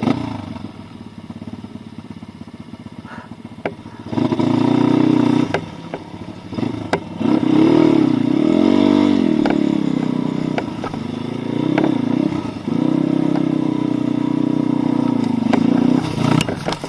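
Pit bike's small single-cylinder four-stroke engine ticking over low, then from about four seconds in revving up and running under throttle. The pitch rises and falls around the middle, with short drops in engine speed near six and twelve seconds.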